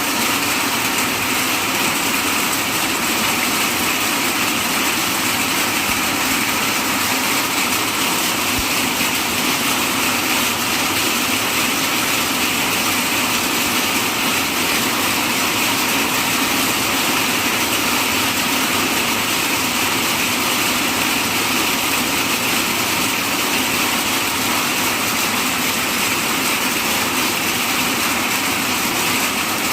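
Hailstorm: hail falling in a loud, steady, dense patter with no letup.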